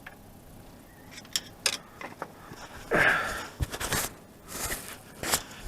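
Tools and metal engine parts being handled: a few sharp clicks, then a louder scrape and rattle about three seconds in, and more clattering near the end.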